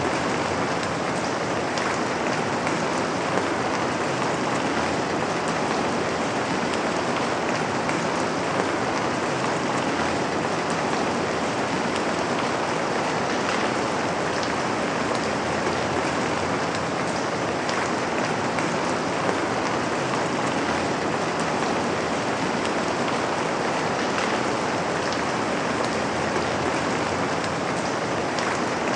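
Steady rain falling, an even hiss with many small drop ticks, as of rain on a window.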